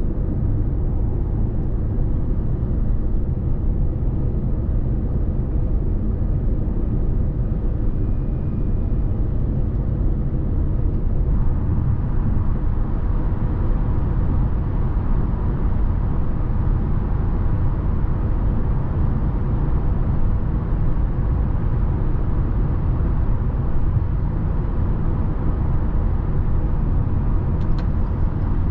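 A 2017 Lexus NX 300h hybrid cruising at autobahn speed: steady road and tyre rumble with drivetrain drone. The sound gets a little brighter about eleven seconds in.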